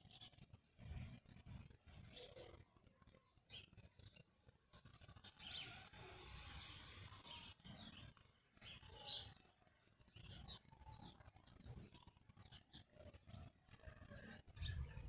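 Faint bird chirps, short high calls scattered through, one louder about nine seconds in, over a low uneven rumble.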